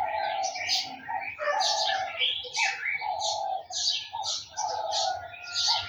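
Several garden birds chirping and calling: quick high chirps overlap a lower, longer call that repeats about every second and a half.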